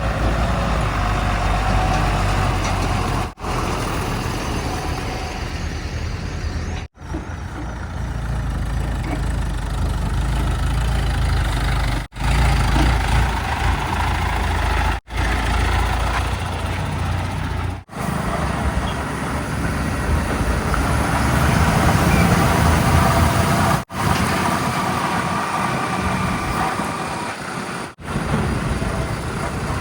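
Heavy diesel engines of earthmoving machinery and trucks running steadily with a deep rumble, in several short clips that cut off abruptly one after another.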